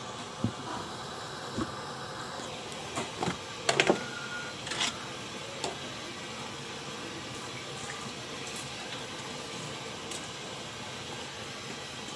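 A steady hiss of a pot of water heating on the stove, with a few knocks and a brief clatter, loudest about four seconds in, as the bakso meatballs are put in to boil.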